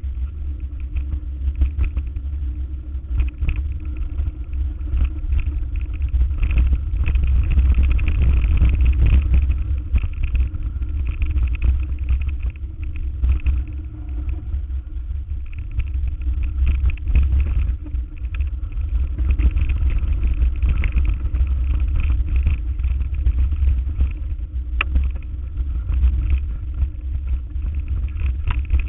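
A vehicle driving, with a steady loud low rumble of engine and running gear that swells a little partway through.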